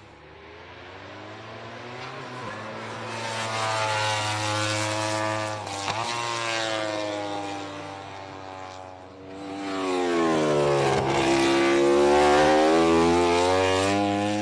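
MotoGP prototype race motorcycles passing at speed on track, the engine note sweeping up and down in pitch as they rev and go by. It swells twice, loudest in the second half.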